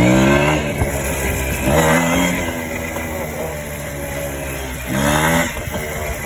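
Minsk-125 motorcycle's single-cylinder two-stroke engine being blipped: it falls back from a high rev at the start, then is revved up briefly twice more, about two seconds and five seconds in, running low between blips.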